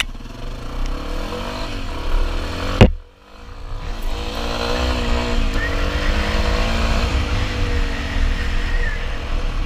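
Dual-sport motorcycle engine revving up and down as it rides through mud, over a steady low rumble. Almost three seconds in there is a single sharp crack, the sound drops away for a moment, then the engine climbs again.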